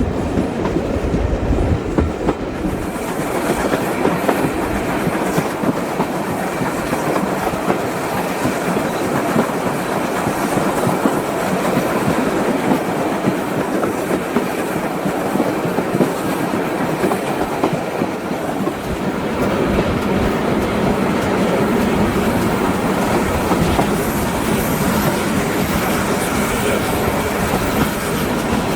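Steam-hauled heritage passenger train running along the line, its carriage wheels clattering steadily over the track.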